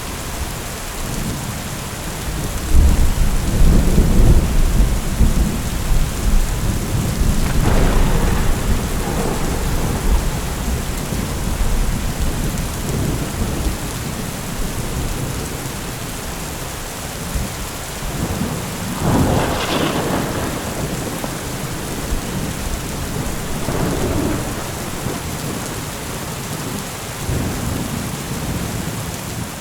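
Steady heavy rain with rolling thunder: a long deep rumble a few seconds in, then several shorter cracks of thunder, the sharpest about twenty seconds in.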